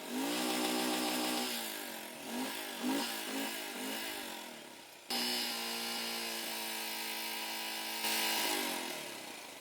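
Royal Enfield Himalayan's single-cylinder engine running after stalling in flood water, while water is still being pushed out. It is revved in several throttle blips, then held at a steady higher speed from about halfway, rising once more near the end before dropping away.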